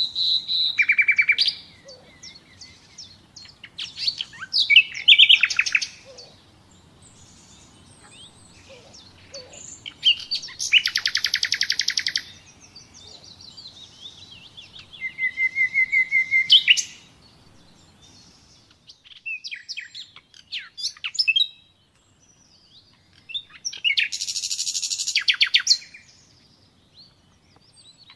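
Nightingale singing in separate short phrases of fast repeated notes and trills, with pauses of a few seconds between phrases.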